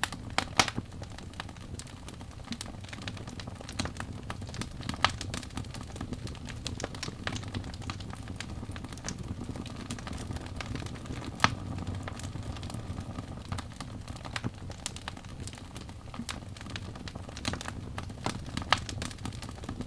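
Wood fire burning in a fireplace: a steady low rush of flames with irregular sharp crackles and pops from the burning logs, a few louder pops standing out about half a second, five seconds and eleven seconds in.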